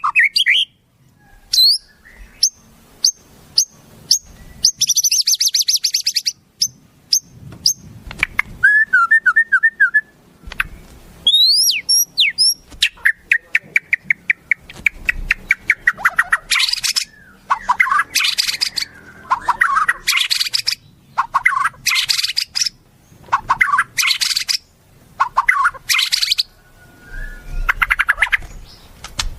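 Wild songbirds singing in quick, varied phrases: rapid high trills, chirps and a few rising whistles. From about the middle on, short bursts of song repeat every second or two. This is a masteran recording of wild birds, used to teach a white-rumped shama new song.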